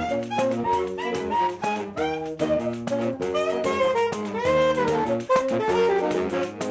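Saxophone quartet playing a lively piece in several voices, the saxes moving together in chords. A pandeiro beats a quick rhythm under them.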